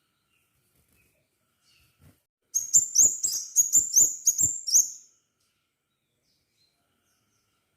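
Crimson sunbird singing one quick burst of about ten sharp, rising high chirps over some two and a half seconds, starting about two and a half seconds in.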